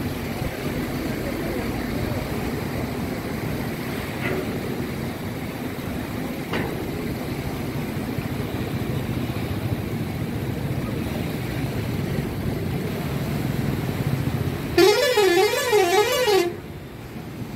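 Steady outdoor background noise, then a little before the end a loud warbling vehicle horn sounds for about two seconds, its pitch wavering up and down.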